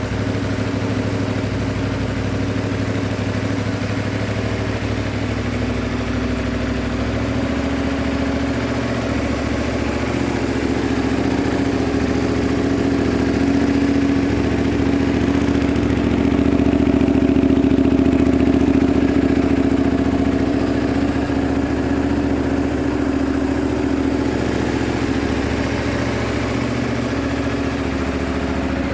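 Honda VTR250 (MC33) V-twin engine idling steadily through an aftermarket muffler. It gets a little louder for several seconds around the middle, then settles back.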